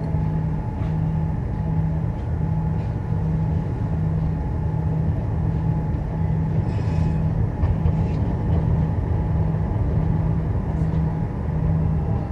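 Tram running between stops, heard from on board: a steady low rumble of motors and wheels on the rails, with a low hum that pulses on and off about once a second. There is a brief hiss about seven seconds in.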